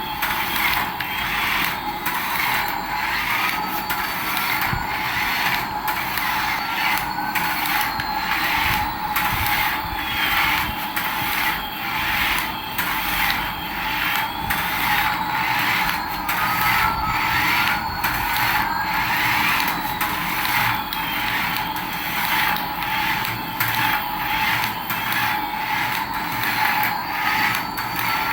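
Small battery-powered toy mechanism running: a steady whine with a regular clicking, about two clicks a second, and a faint tone that slowly rises and falls.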